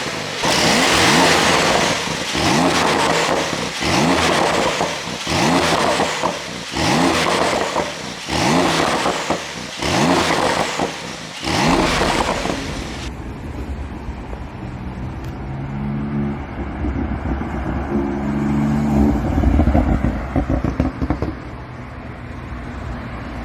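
Twin-turbo flat-six of a 2022 Porsche 911 Turbo S exhausting through fully open exhaust flaps: about seven sharp rev blips in a row, each climbing and falling back, over the first half. About halfway through the sound turns lower and duller, an engine running with a few short rises in pitch.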